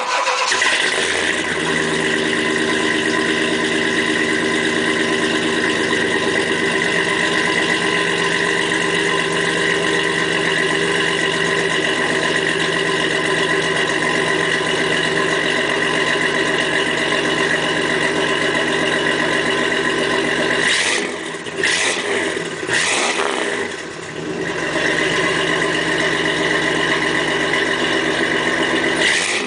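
A 1994 Chevy S10 Blazer's 4.3 Vortec V6 catches on a cold start in sub-zero weather and settles into a steady fast idle through its dual high-flow exhaust. The sound dips and wavers briefly about three-quarters of the way through.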